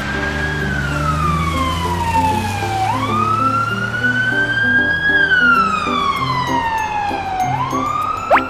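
Cartoon siren sound effect wailing in repeated cycles, each a quick rise and a slow fall about every two and a half seconds, over a simple background tune. A quick upward whistle comes near the end.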